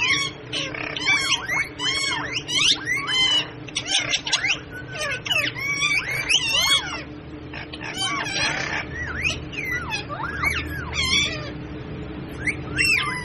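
A parrot calling in a rapid series of short calls that sweep up and down in pitch, with a couple of brief lulls, over a steady low hum.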